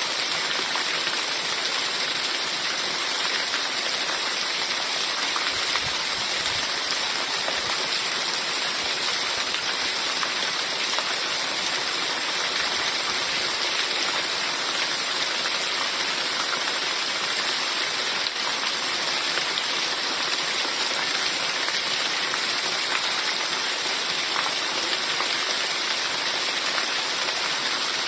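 Heavy rain falling steadily, a dense even hiss with fine drop patter throughout.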